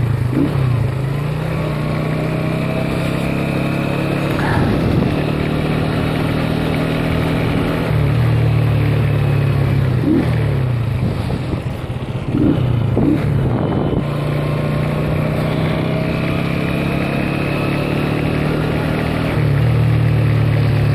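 Motorcycle engine running under way, its note holding steady for stretches and dipping and picking back up several times with throttle and gear changes.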